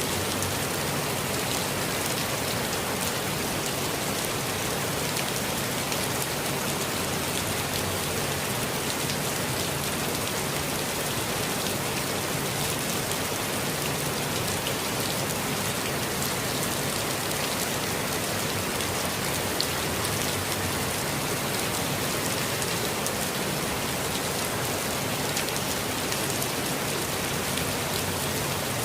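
Steady rainfall with scattered individual drops ticking on surfaces.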